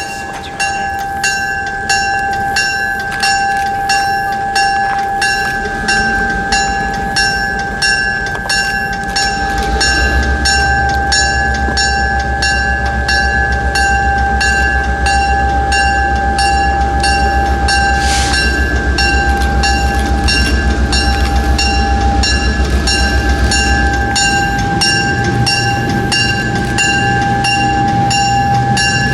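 A train passing a grade crossing. The crossing bell strikes about twice a second throughout over a steady high tone. A locomotive's low engine rumble comes in about ten seconds in and drops away about twenty-four seconds in.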